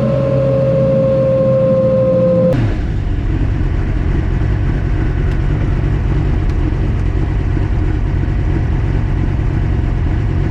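Drag race car engine running hard, with a strong steady tone that slowly falls in pitch. The tone cuts off sharply about two and a half seconds in, giving way to a loud, steady engine rumble for the rest.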